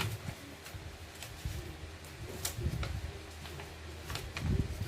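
Sheet of paper being handled and creased while a paper airplane is folded: scattered short crisp rustles and crackles of the paper over a low steady hum.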